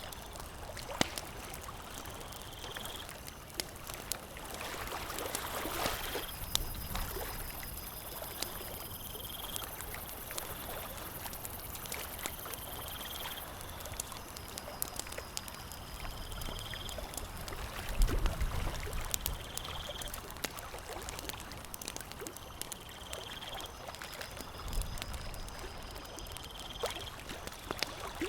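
Campfire crackling, with frequent sharp pops and snaps over a steady soft hiss. A short high chirp repeats every two to three seconds throughout.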